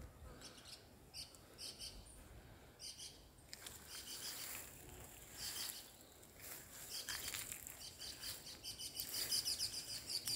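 Small birds chirping in short high notes, sparse at first, then coming quicker and louder over the last few seconds.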